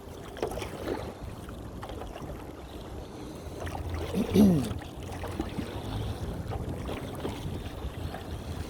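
Wind buffeting the microphone with a low rumble while a paddle dips and splashes in choppy water. About four seconds in there is a short pitched cry that bends in pitch.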